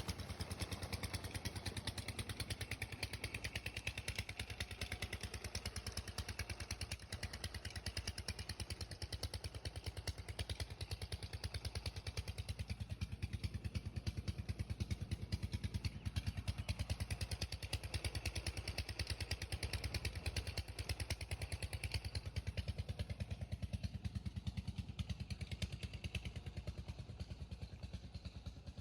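Old diesel engine running at a steady speed, its firing strokes making a fast, even beat.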